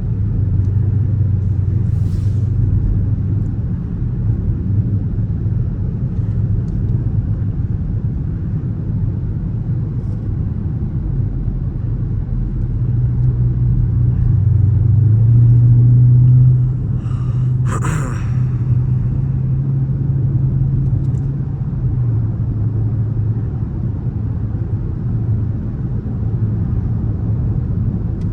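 Dodge Charger R/T's 5.7-litre HEMI V8 droning low while cruising. About 13 seconds in, the engine note rises and grows louder under acceleration, then falls back suddenly a few seconds later. A brief sharp noise follows shortly after.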